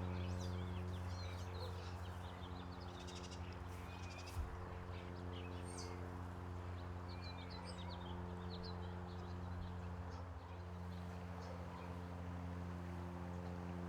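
Several small birds chirping and calling in short, quick notes throughout, over a steady low mechanical hum. There is one brief knock about four seconds in.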